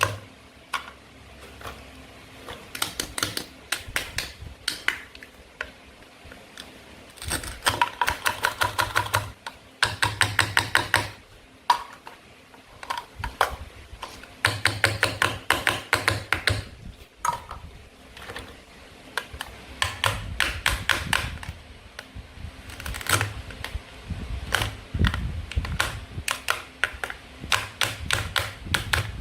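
Toy play-food fruit and vegetables being cut with a toy knife: quick runs of crisp clicks, many to the second, in bursts of a second or two with short pauses between.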